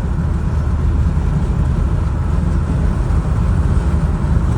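Steady low rumble of engine and road noise inside a vehicle's cabin while driving and towing a heavy trailer.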